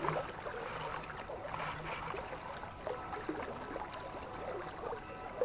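River water flowing steadily, with faint small rippling sounds over it.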